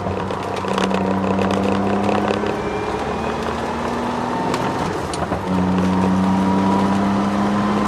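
Twin-turbo Ford Sierra XR4x4 engine pulling under load, heard from inside the cabin, with a brief dip about five seconds in, likely a gear change, before it pulls again. A faint whine rises slowly over it, which the owner puts down to the solid differential mount.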